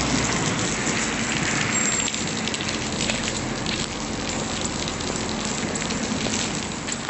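Hailstorm: a dense, steady patter of many small hits on surfaces.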